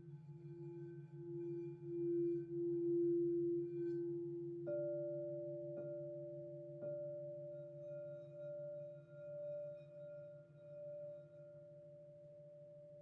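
Crystal singing bowls ringing: one bowl's tone swells and wavers. A higher-pitched bowl is struck about three times near the middle and rings on with a slow pulsing beat as it fades.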